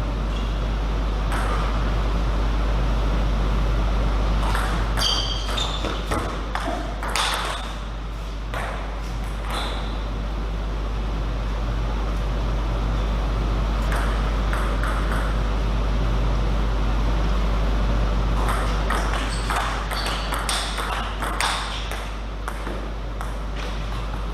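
Table tennis ball clicking off rackets and the table in two short rallies, about five seconds in and again near the end, over a steady low hum.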